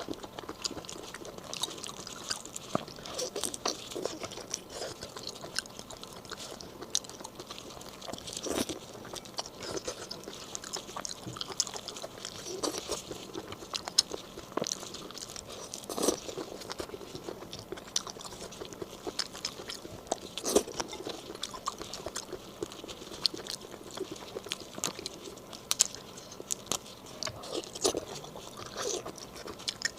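Close-miked chewing and biting of large raw marinated black tiger shrimp, with many small crunches and clicks as the food is bitten and chewed.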